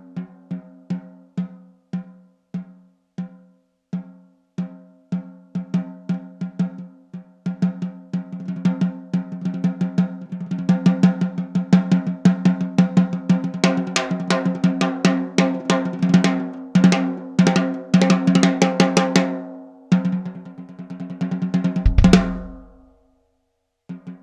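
A close-miked PDP Limited Edition 6x14 wood hoop snare drum is played with sticks. Strokes come about twice a second at first, then build into faster, louder patterns and rolls. About 22 seconds in the playing ends on a loud hit with a deep low thump that rings out, and it starts again near the very end.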